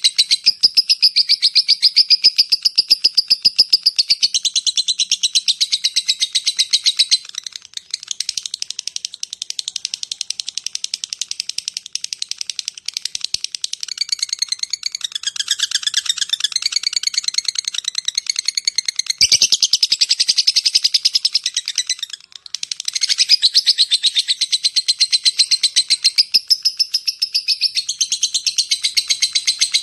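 Lovebird ngekek: a long, loud, very fast chattering trill of high-pitched notes. It pauses briefly twice, about seven seconds in and again about twenty-two seconds in.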